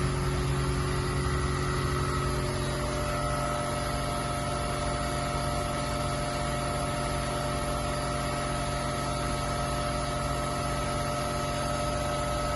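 Steady mechanical hum with several steady tones layered over it, one higher tone coming in about three seconds in.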